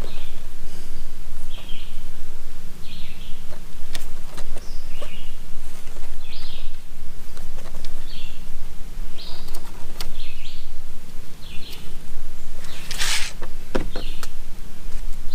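A small bird chirping over and over, short chirps about once a second, over a steady low hum. A few sharp clicks and one louder rustle near the end come from handling small parts or tools.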